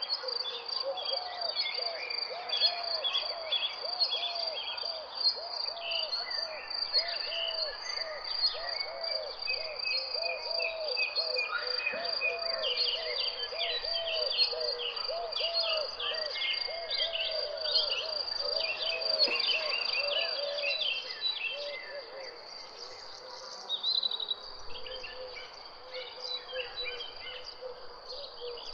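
Birds chirping over a steady, high insect trill, likely crickets. A fast run of low, arching call notes repeats, then stops about three-quarters of the way through, leaving sparser chirps.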